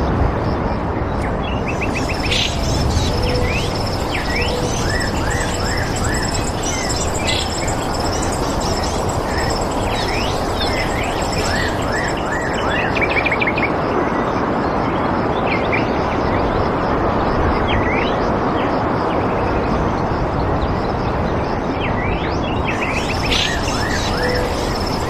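Many birds chirping in quick, short notes over a steady rushing background noise, with a high, thin, steady tone in the first half and again near the end.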